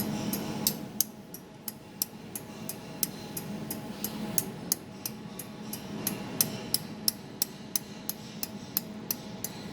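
A 200 W jewelry laser welding machine firing repeated pulses at a metal board, each pulse a sharp tick, about three a second, over the machine's steady hum.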